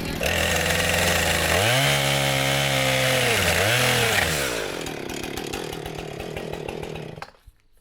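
Small gasoline engine running, revving up twice in quick succession and settling back, then shut off about seven seconds in.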